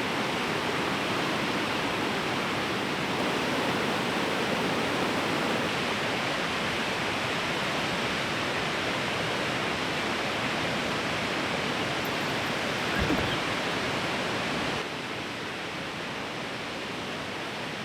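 Fast river rushing loudly, a steady wash of water noise. A brief low knock about thirteen seconds in, and the water sound drops a little a few seconds before the end.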